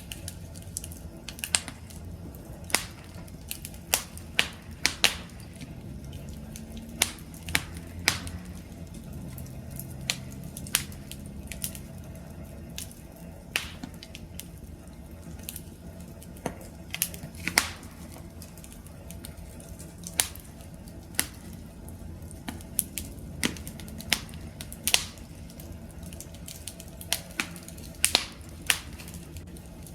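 Wood fire crackling: sharp, irregular pops and snaps, several a second at times, over a low steady rumble of burning.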